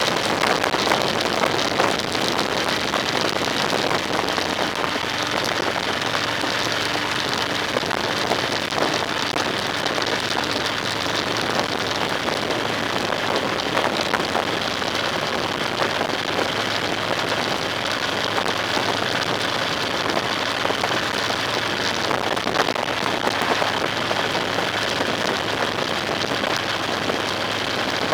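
Steady hiss of a vehicle on the move, with a faint low hum underneath, unchanging throughout.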